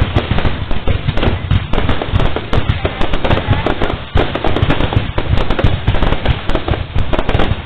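Fireworks display going off in a dense, continuous run of overlapping bangs and crackles, several a second, without a break.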